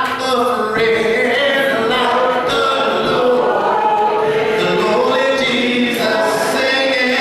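Congregation singing a song a cappella: many voices together without instruments, holding long notes that slide from one pitch to the next.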